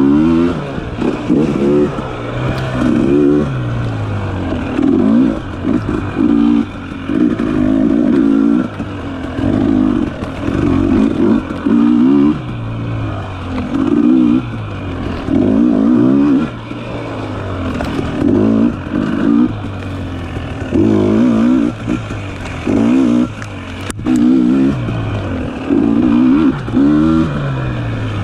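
Dirt bike engine revving in repeated short bursts, about one every second or two, as the throttle is opened and closed through tight singletrack turns.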